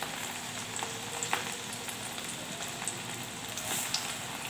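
Tempeh deep-frying in hot oil in a wok: a steady sizzle with occasional sharp pops.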